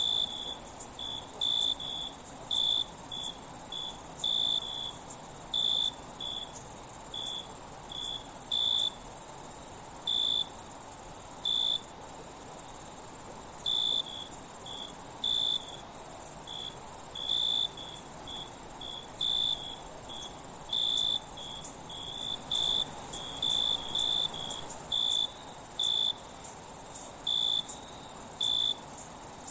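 Night insect chorus: a steady high-pitched insect buzz with crickets chirping over it in short, irregular pulses, and a few momentary dropouts.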